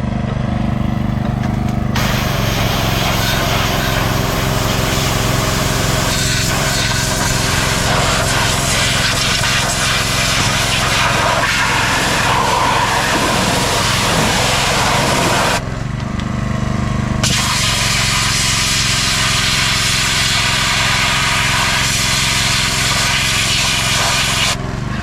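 Small petrol engine of a pressure washer running steadily while the spray jet hisses, washing mud off a tractor. The spray cuts in about two seconds in, stops briefly past the middle, and stops again near the end while the engine keeps running.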